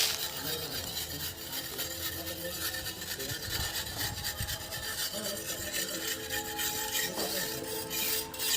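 Continuous rough rubbing and scraping of a hand tool worked over a hard surface.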